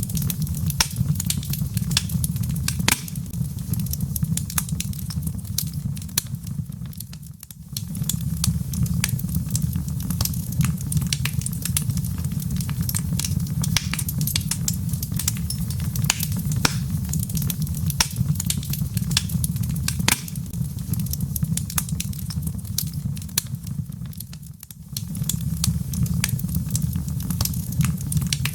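Wood fire burning in a fireplace: a steady low rumble of flame with dense, irregular crackles and pops from the burning logs. The sound briefly fades down twice.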